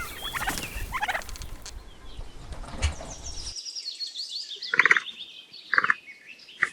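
Domestic turkey gobbling and calling over farmyard background noise. About three and a half seconds in, the background cuts off abruptly, and two short calls follow.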